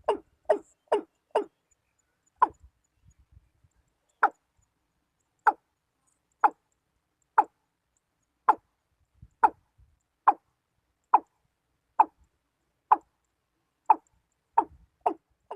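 Watercock giving its call: a long series of short, hollow knocking notes. The notes run about two a second at first, slow to about one a second, then quicken again near the end.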